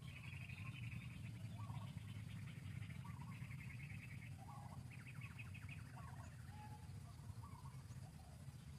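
Faint birds calling: several short, rapid trills and little chirping notes, repeating every second or two over a steady low hum.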